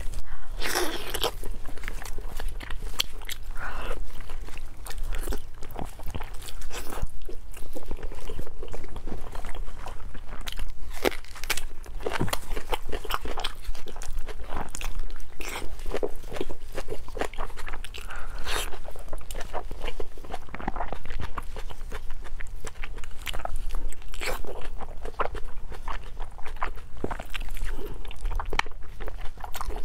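Close-miked eating of glazed braised pork: biting, tearing and chewing, heard as a dense run of short mouth clicks several times a second, over a faint steady low hum.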